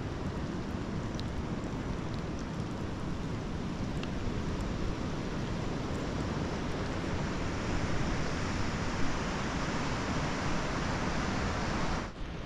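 Steady hiss of heavy rain falling on sodden grassland, with runoff water streaming over the ground; it dips suddenly near the end.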